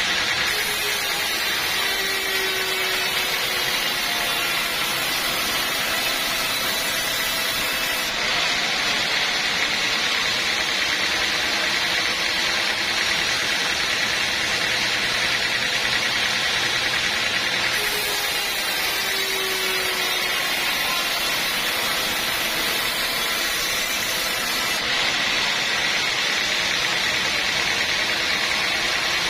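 Sawmill machinery running steadily while sawing wood: a continuous, loud mechanical noise whose character shifts abruptly a few times.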